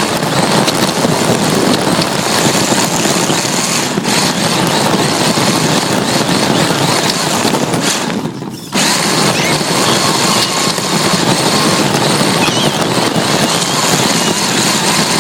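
RC drift car driving, heard through a phone cable-tied to its bare chassis: a loud, steady rush of motor, drivetrain and tyres on the ground. It drops out briefly a little past halfway, then picks up again.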